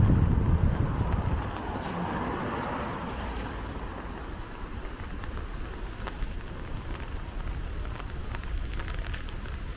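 A car passes on a rain-wet street, its tyres hissing as it swells and fades over the first few seconds. After that, steady rain with scattered drop ticks and low wind rumble on the microphone, loudest in the first second.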